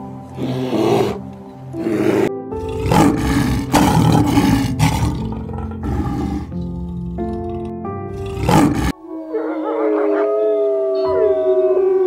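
A brown bear's growls, then a lion's repeated loud roars, over background music. About nine seconds in the roaring stops abruptly and long wavering wolf howls begin.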